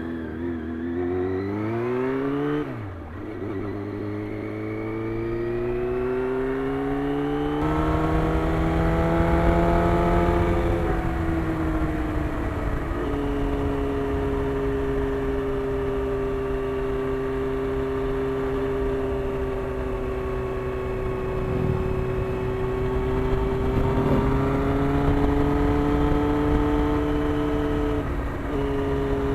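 Motorcycle engine accelerating, its pitch rising and dropping back at gear changes about 3 and 8 seconds in, then holding steady at cruising speed. Wind rushes over the microphone from about 8 seconds on.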